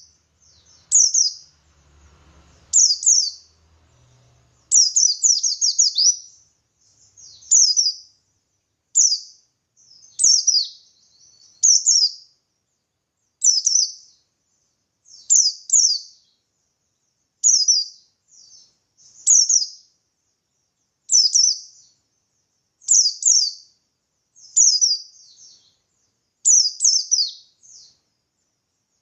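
Buxtoni white-eye (pleci buxtoni) singing its wild-style 'ngalas' song: short bursts of one to several high, quickly falling notes, repeated every second or two.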